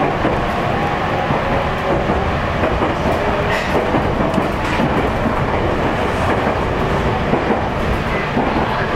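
Meitetsu train running on the rails: a steady, loud rumble of wheels and running gear, with a couple of short sharp clacks about midway.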